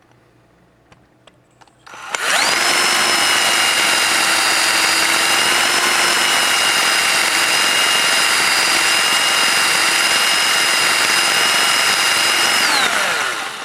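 Electric drill spinning a 3D-printed nylon crown enhancer bit charged with lapping compound in the muzzle of an airsoft inner barrel, grinding away the burr at the crown. It starts about two seconds in, winds up quickly to a steady high whine, runs for about ten seconds, then winds down near the end.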